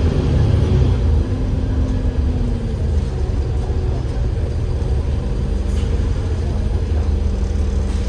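Enviro500 MMC double-decker bus with a Cummins L9 diesel and ZF Ecolife automatic gearbox running: a steady low engine rumble, with a faint tone that slides down over the first couple of seconds, then a steady hum.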